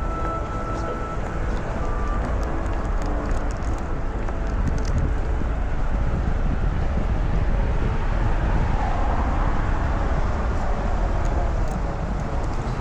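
Steady outdoor rumble of road traffic, with wind buffeting the microphone.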